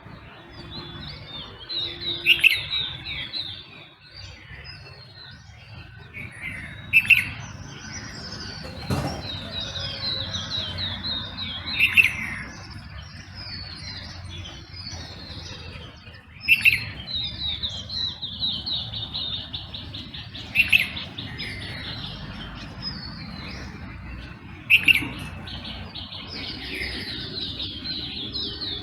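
Several birds singing in a dawn chorus: rapid chirps and fast twittering trills, with one loud, sharp call repeating about every four to five seconds.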